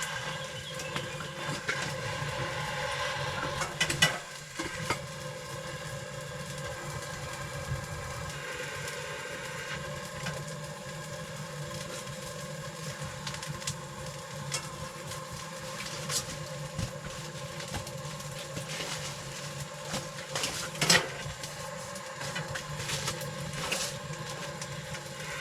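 Kindling and firewood being lit in a small wood-burning camp stove, with scattered crackles and a few louder knocks of wood being handled, about four seconds in and again near the end, over a steady low hum.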